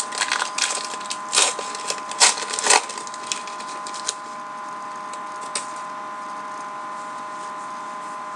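Baseball trading cards being flipped and slid against one another, a run of crisp snaps and rustles for about four seconds, then a single flick or two over a steady background hum.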